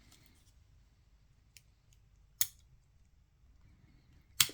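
Sharp clicks and taps of small tools against the camera's metal and plastic parts during disassembly: a faint one, then two sharp ones, about two and a half seconds in and just before the end.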